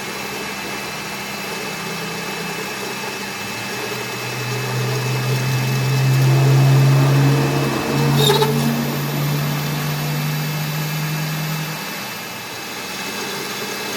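A workshop machine running steadily, with a low hum that swells up about a third of the way in and dies away near the end, and a short sharp knock about midway.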